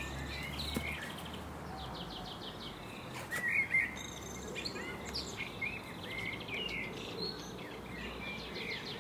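Garden birds singing: many short chirps and several quick rattling trills, the loudest chirps about three and a half seconds in.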